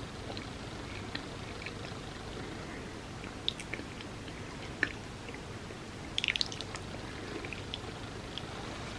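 Close-miked chewing of food: wet, squishy mouth sounds with scattered sharp clicks, and a short cluster of crackles about six seconds in.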